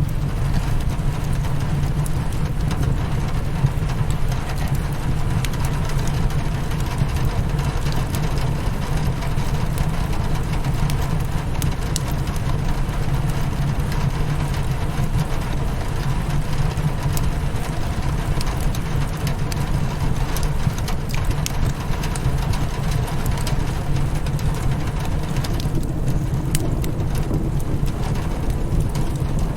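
Steady rain against a window mixed with a crackling fireplace: an even low rumble with scattered small crackles and pops.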